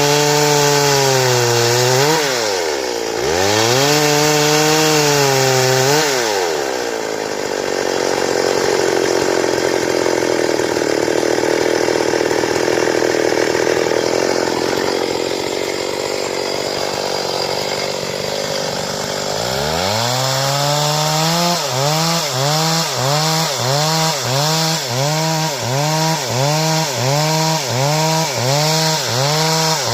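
Stihl two-stroke chainsaw revving up and down, then running steadily under load while cutting through wood for about twelve seconds, then revving in quick repeated surges, about one and a half a second, near the end.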